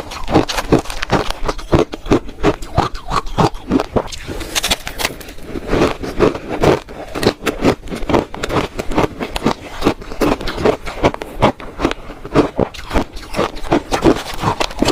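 Close-miked crunching of shaved ice being bitten and chewed by the spoonful, as rapid crisp crunches several a second.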